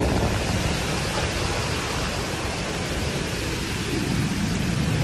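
Heavy storm downpour, a steady dense rushing of rain. A low rumble starts to build near the end.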